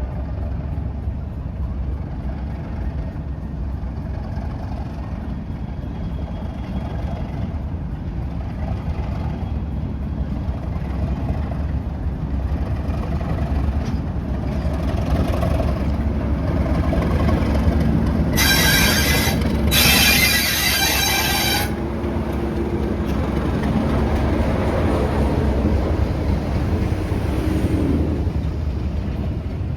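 Railway locomotive running with a steady low rumble. About two-thirds of the way through come two loud hisses in quick succession, each lasting a second or two.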